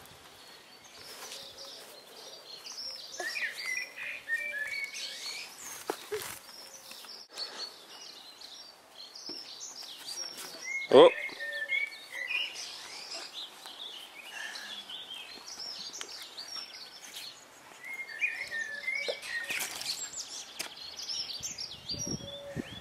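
Garden birds chirping and singing, with one short, loud falling squeak about halfway through.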